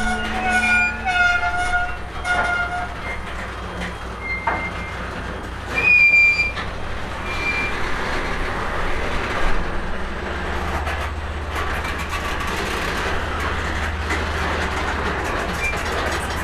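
Freight train led by an EMD SD45T-2 diesel locomotive rolling along iced rails: a steady rumble of wheels and train noise. The locomotive's low engine hum grows steadier and stronger about ten seconds in.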